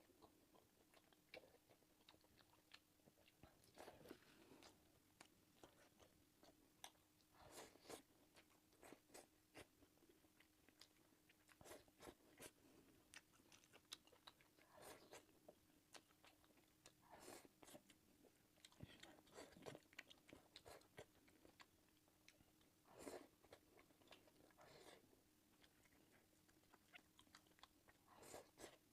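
Close-miked eating of sausage and fried rice: soft, irregular chewing, biting and mouth clicks, with a faint steady hum beneath.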